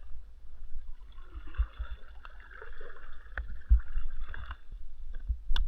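Water gurgling and lapping around a kayak, with low knocks and rumble from the hull and handling, several small clicks, and a sharp click near the end.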